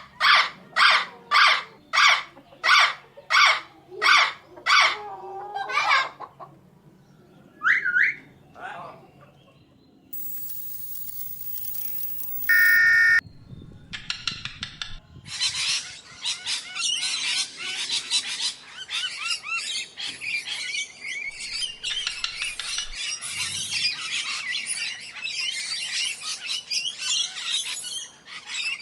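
Indian ringneck parrot calling loudly over and over, about two calls a second, for the first six seconds. After a stretch of hiss and a brief loud steady tone, many parrots chatter and screech together without a break.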